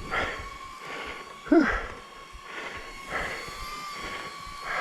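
A small camera drone's propellers whine steadily overhead while a mountain biker breathes hard after a climb, puffing every second or so and letting out a loud "whew" about a second and a half in.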